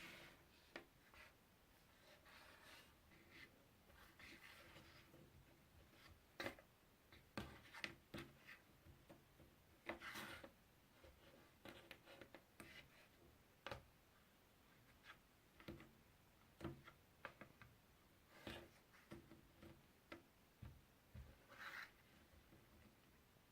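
Faint, close handling of jigsaw puzzle pieces: scattered soft taps and clicks with short rubbing slides.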